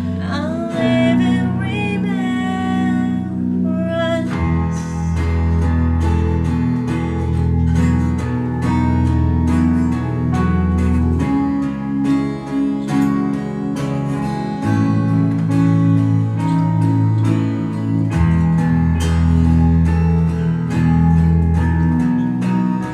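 Worship song played on strummed acoustic guitar with a bass line; a voice sings a line in the first few seconds, then the guitar carries on without singing.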